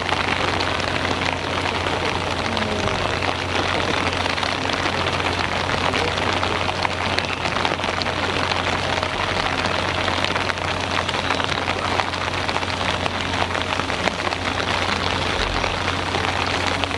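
Heavy rain falling steadily: a dense, even hiss of pattering drops, with a steady low hum underneath.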